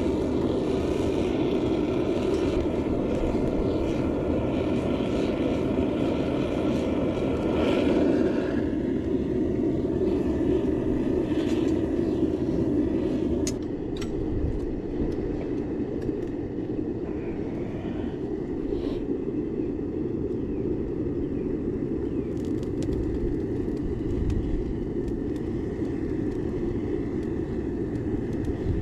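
Metal melting furnace's burner running steadily, a dense, even noise that drops slightly in level about halfway through, with a few light clicks on top.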